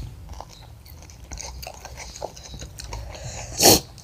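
Close-up chewing and biting on crispy spicy fried chicken: small wet clicks and smacks of mouths and fingers. One louder, short burst of noise near the end.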